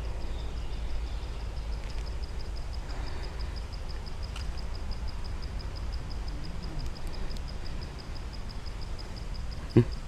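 An insect chirping in a steady, evenly repeating high pulse over a low outdoor rumble, with one sharp knock near the end.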